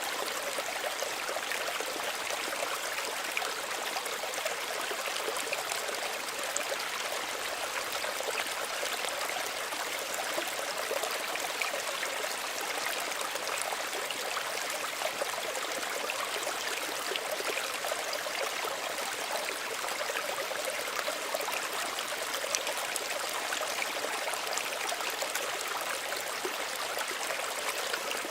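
Small stream of running water, a steady gentle babbling and trickling.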